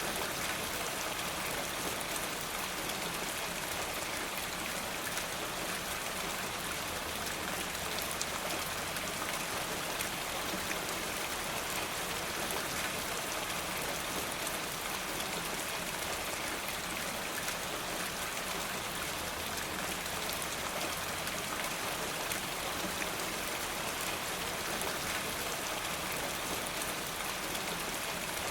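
Steady rain falling, an even hiss with a dense patter of small drop ticks throughout.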